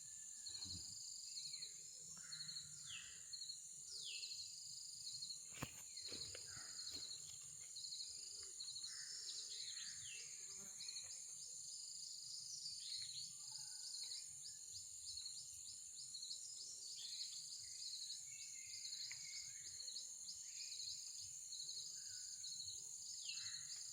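Outdoor insect chorus: a steady high chirring with a quick pulsed cricket-like chirping, and birds calling with short falling notes every few seconds. A single sharp tap about six seconds in.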